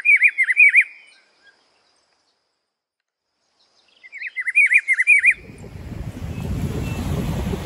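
A bird's chirping call, a quick trill of rising and falling whistled notes, heard twice about four seconds apart. Then a rushing noise of wind and surf rises in.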